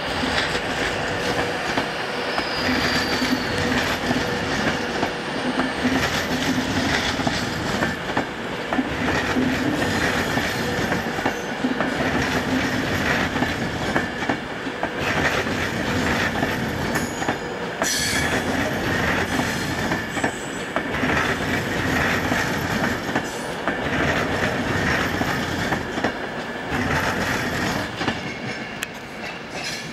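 Virgin Class 390 Pendolino electric train passing at close range: a steady, loud rolling noise of wheels on rail, with repeated clicks as the wheels cross rail joints and points and a low hum in the first half.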